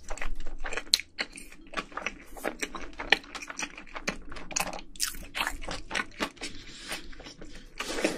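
A person chewing crunchy food, with many quick, irregular crunches.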